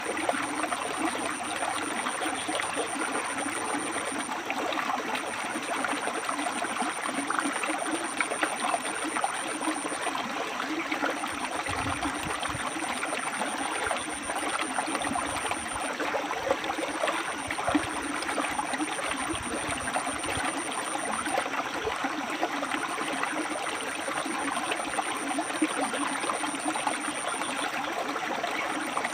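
River water flowing and splashing over rocks, a steady rushing and gurgling. A thin high tone sounds over it in repeated stretches of about four seconds with short gaps.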